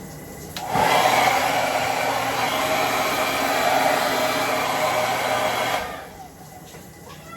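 Handheld hair dryer switched on about a second in, running steadily with a constant fan and motor hum for about five seconds, then switched off.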